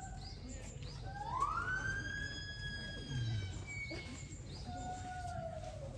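Siren wailing: a tone rises over about a second, holds high for a couple of seconds, then comes back lower and slides down near the end.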